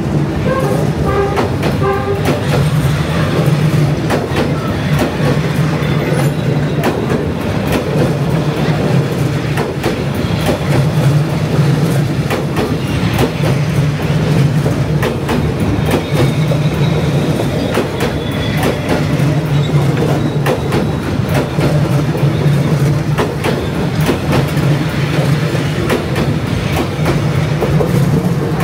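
Vietnam Railways passenger train passing at close range, its wheels clattering over the rails in a loud, steady rumble. A low drone swells every couple of seconds as the carriages go by.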